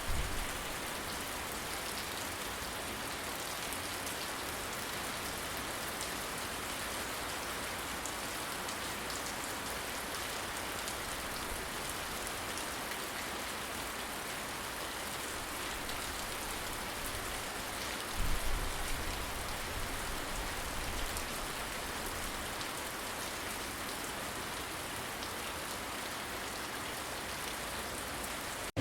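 Steady rain falling, with a low rumble of distant thunder that starts suddenly about two-thirds of the way through and fades over a few seconds.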